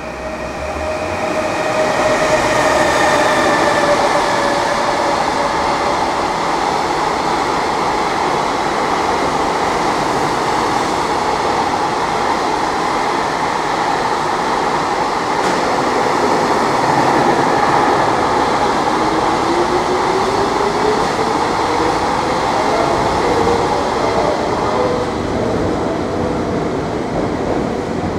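Container freight train passing through a station at high speed, with the steady rumble and clatter of its wagons' wheels on the rails. The level builds over the first two seconds, and a high whine sinks slightly in pitch as the head of the train goes by.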